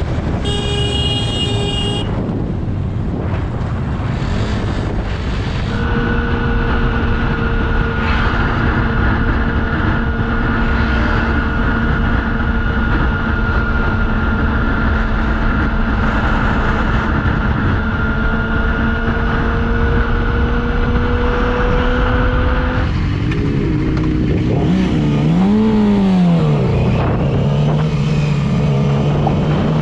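Motorcycle engine and wind noise heard from the rider's camera. A stack of steady tones sounds for about two seconds at the start. The engine then holds a steady speed, and from about two-thirds of the way through its revs rise and fall repeatedly, as with throttle changes and gear shifts.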